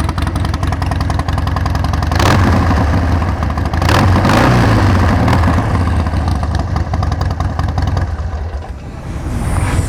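Harley-Davidson Sportster 1200's air-cooled V-twin running through Vance & Hines slip-on mufflers: idling, then throttle blips about two and four seconds in that hold the engine higher for a few seconds before it drops back near the end. The engine has just started smoothly, with no hesitation.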